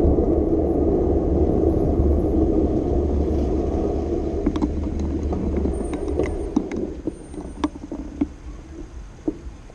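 Steady low rumble of street and traffic noise heard from a moving bicycle, fading about six to seven seconds in, with scattered light clicks and ticks over the second half.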